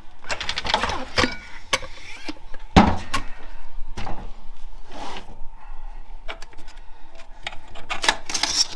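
Metal internal parts of a 4L65E automatic transmission clinking, knocking and scraping as they are pulled from the case and handled by hand. The knocks are irregular, with the loudest about three seconds in and near the end.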